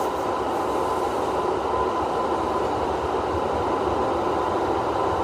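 Automatic car wash machinery heard from inside the car: a steady rushing noise with a faint, steady whine running through it.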